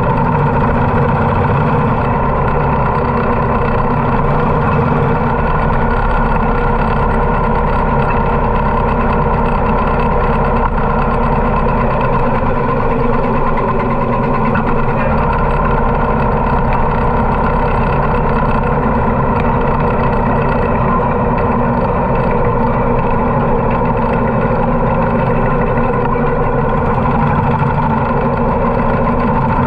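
Harley-Davidson motorcycle's V-twin engine running steadily, with no change in speed or level.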